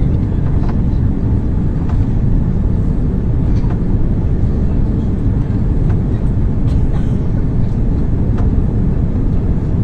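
Steady low rumble of a jet airliner's engines and rushing air, heard from inside the passenger cabin, with a few faint clicks.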